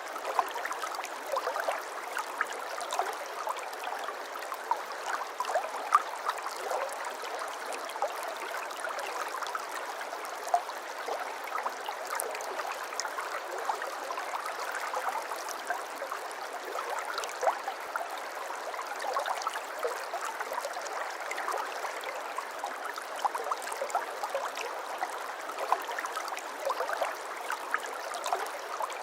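Flowing water babbling steadily, like a small stream, with many small splashes and drips throughout.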